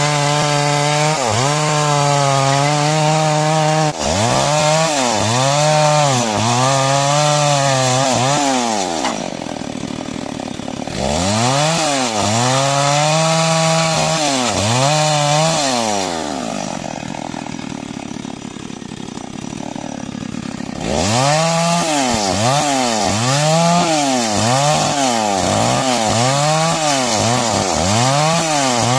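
Chainsaw cutting timber, its engine pitch repeatedly sagging under load and recovering as the bar is worked through the wood. Twice it drops back quieter for a few seconds, then the cutting resumes with quicker rises and falls in pitch.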